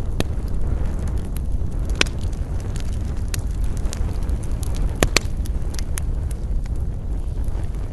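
Wood campfire crackling and popping, with sharper pops about two and five seconds in, over a steady low rumble.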